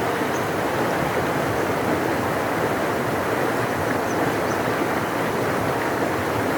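A large river rushing steadily, an even, unbroken wash of water noise, with a few faint high chirps above it.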